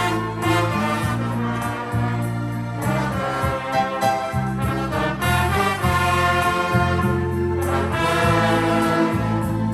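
Brass band playing a tune in sustained, held chords with trumpets and trombones.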